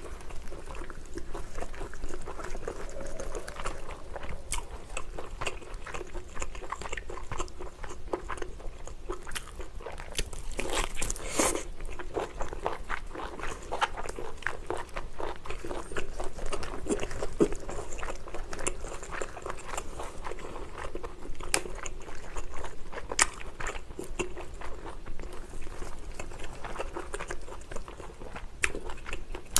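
A person chewing and biting into lobster, with many small crisp clicks and crunches in quick, irregular succession.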